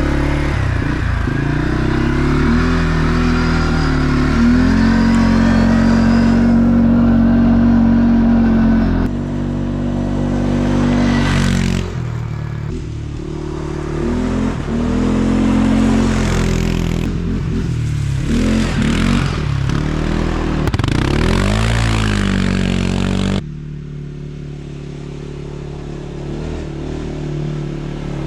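CF Moto CF400 quad bike's engine running under way: held at steady revs for several seconds, dropping about nine seconds in, then revving up and down repeatedly before settling to a lower, steadier note near the end.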